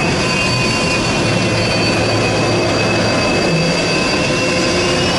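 Jet aircraft engines running on the ground: a loud, steady rush with a high turbine whine whose pitch sinks slightly.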